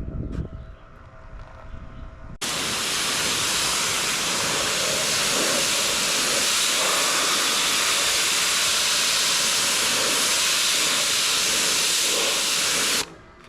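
Pressure washer wand spraying a steady, loud hiss of water, switched on suddenly a couple of seconds in and cut off abruptly near the end.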